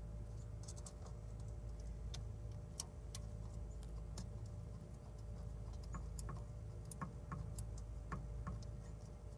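Irregular light metallic clicks and taps from hand tools working on the starter's wiring terminals, over a steady low hum.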